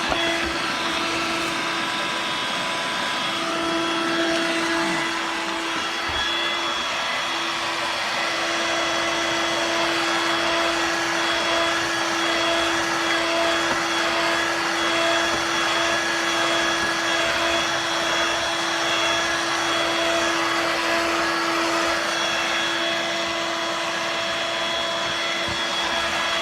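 Dirt Devil Vibe corded stick vacuum running steadily with its floor head's rotating brush engaged: a continuous rush of air under a steady motor hum.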